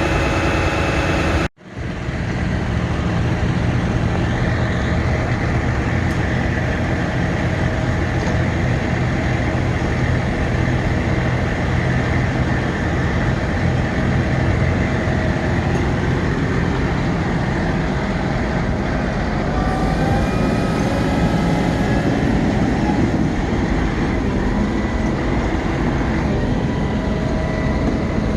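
Ford F-750 bucket truck's engine running steadily, with a few steady tones over the rumble. The sound cuts out sharply for a moment about a second and a half in, then picks up again.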